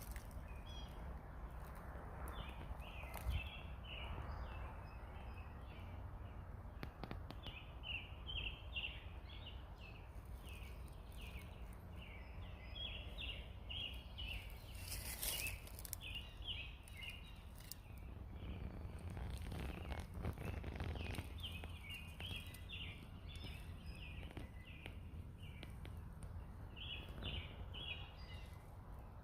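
Birds chirping: clusters of short, quick high notes repeating throughout, over a steady low rumble, with a few brief clicks.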